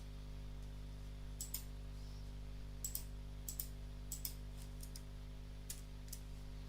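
Computer mouse clicking: about a dozen short, sharp clicks, many in quick pairs like double-clicks, over a steady low electrical hum.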